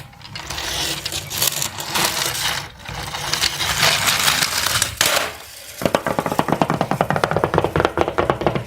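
Rattling and scraping noise that rises and falls, then from about six seconds in a fast, even run of small clicks, many a second, like a plastic mechanism rattling.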